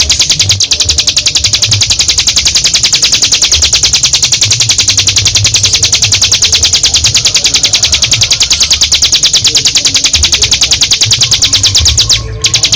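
Ciblek gunung (mountain prinia) singing its long 'ngebren' song: a loud, fast, even trill of rapidly repeated high notes, held on with hardly a break, stopping briefly near the end and starting again.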